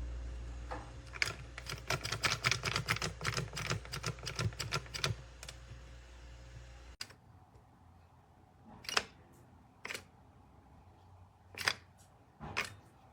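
Rapid, irregular clicking and clattering over a low steady hum that cuts off suddenly about seven seconds in, followed by five separate sharp clicks.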